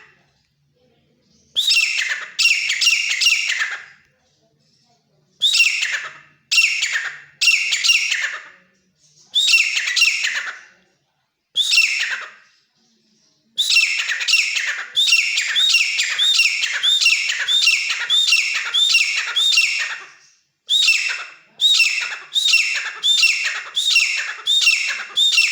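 Grey francolin (desi teetar) calling loudly: shrill notes repeated in short groups with brief pauses. About halfway through, the notes run together in a long, fast unbroken series.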